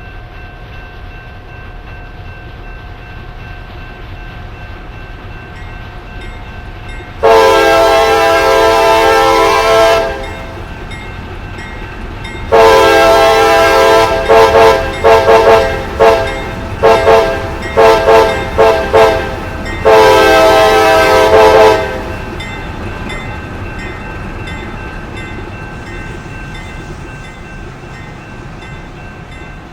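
Diesel locomotive air horn sounding a loud multi-note chord: one long blast, then a blast that breaks into a string of quick short toots, then a final long blast, over the steady rumble of the train.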